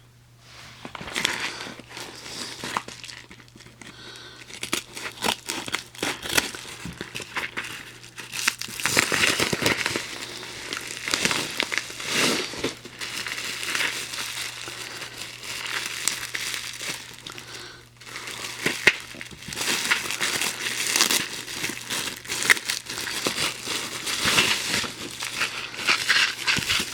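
Crinkling and crackling of candy packaging being handled, in irregular bursts with brief lulls, over a faint steady low hum. The packaging is a 1993 Willy Wonka Nerds candy box.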